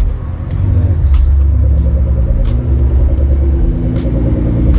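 A car engine running at low revs close by, a steady low rumble whose pitch shifts slightly a couple of times, typical of a car creeping in to park.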